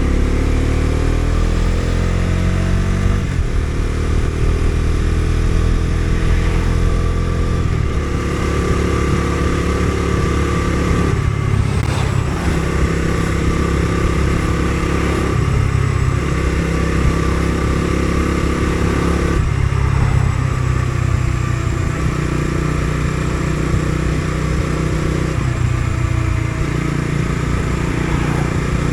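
Bajaj Dominar 250 single-cylinder engine under way on the road, rising in pitch as it accelerates in the first few seconds, then running at a varying speed with several brief dips in the engine note.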